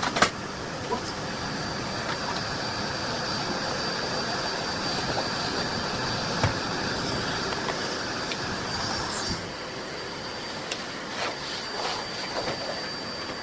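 Miele Blizzard CX1 cylinder vacuum cleaner running steadily with a hard-floor tool on a hard floor, a thin high whine over its steady rush of air. Sharp clicks and knocks come now and then, the loudest just after the start.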